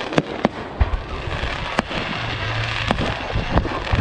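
Fireworks display: a run of sharp bangs from bursting shells, about five in four seconds, over constant crackling and a low rumble.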